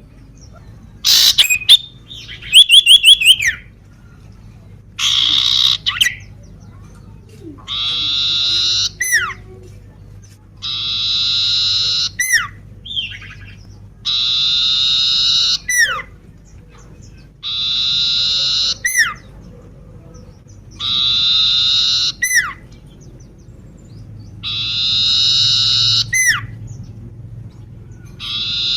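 Common iora (cipoh) calling over and over. A few loud quick trills open it, then a long harsh, rasping note of about a second and a half comes every three to three and a half seconds, each ending in a sharp downward-sliding whistle.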